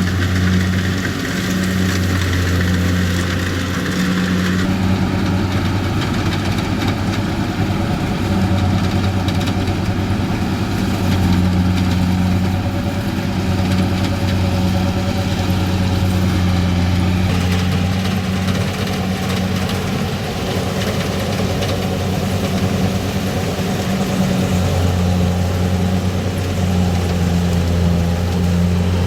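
Rice combine harvester's diesel engine and machinery running steadily with a loud, low hum. The higher part of the sound shifts about five seconds in and again a little past halfway.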